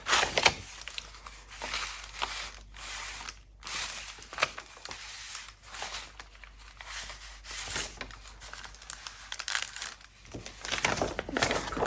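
Sheets of paper being handled, rustling and crinkling in irregular bursts with short sharp crackles.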